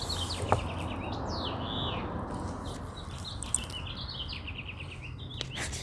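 Small songbirds chirping, with quick runs of rapid repeated chirps at the start and again about four seconds in, and a swooping call in between, over a steady low hum.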